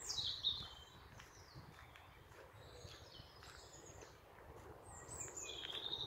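Woodland birds singing. A loud call sweeps downward at the start, scattered chirps follow through the middle, and another call comes near the end.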